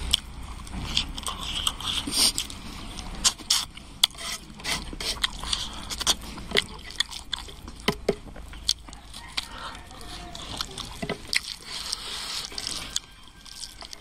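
A person eating close to the microphone: chewing and lip smacks, heard as many short wet clicks at irregular intervals.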